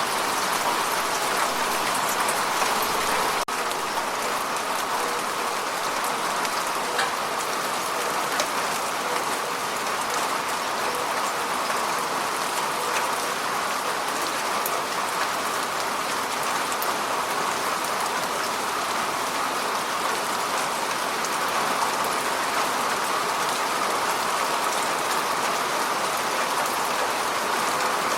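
Heavy rain falling steadily, an even hiss of drops on hard surfaces.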